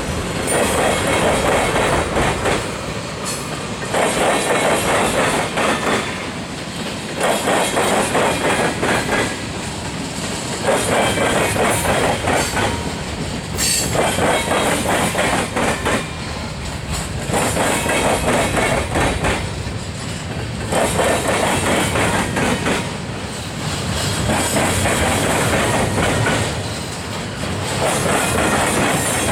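Freight train's cars rolling slowly past, their wheels clattering over the track joints in a swell that repeats about every three seconds as each car's trucks go by.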